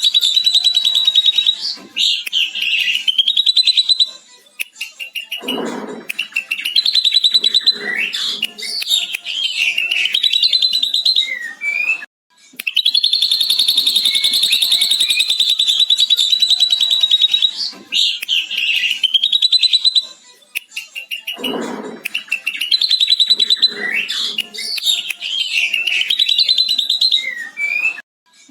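Ashy drongo singing a long, rapid, lovebird-like chattering trill (the lovebird 'ngekek' it has learned), broken by shorter whistled glides and chatters. The same phrase sequence comes around twice, a looped recording.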